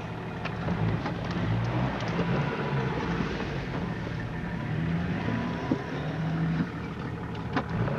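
4x4's engine running under load on a snowy off-road track, revs rising and falling, heard from inside the cab with a few short knocks and jolts.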